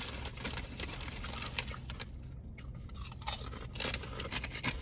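Close-up crunching and chewing of jalapeño kettle-cooked potato chips, many irregular crisp crunches in a row.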